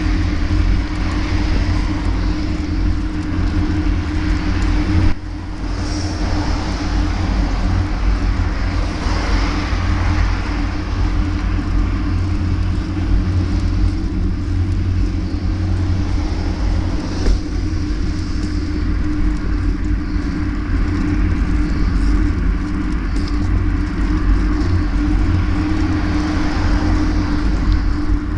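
Steady vehicle running noise during a ride: a heavy low rumble with a steady hum that holds its pitch, briefly dropping in level about five seconds in.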